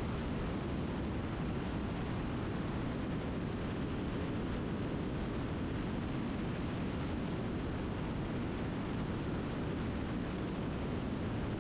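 Steady in-flight cockpit noise of a light aircraft: engine and airflow as a constant even rumble-hiss, heaviest in the low range, with no changes.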